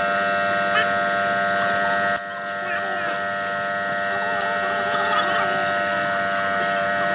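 Steady hum made of several held tones, typical of an electric motor or machine running. There is a short click about two seconds in, where the level drops slightly.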